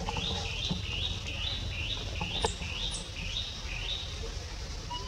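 A bird's high chirping call repeated evenly about twice a second, nine notes in a row, stopping about four seconds in.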